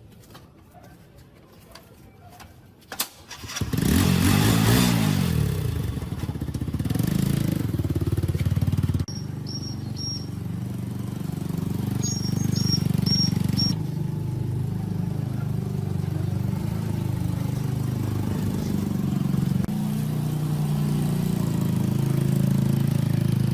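Small four-stroke Rato gasoline engine of a 1.5-inch water pump starting about three and a half seconds in, revving up quickly, then running steadily.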